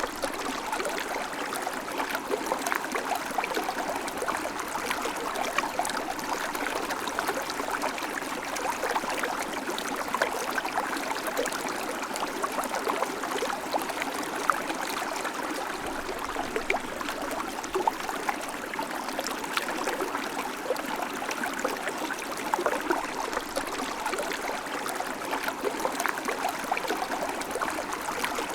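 River water flowing over stones, a steady rush full of small splashes and gurgles.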